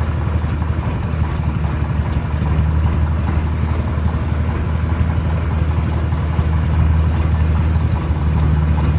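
Engine of a rice combine harvester or farm tractor running steadily with a deep low drone, growing a little louder a couple of seconds in.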